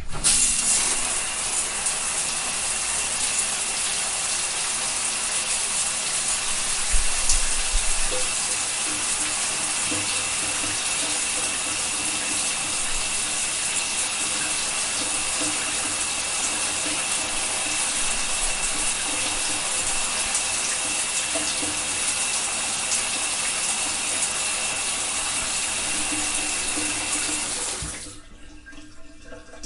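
Shower running: a steady hiss of water spray, shut off suddenly near the end.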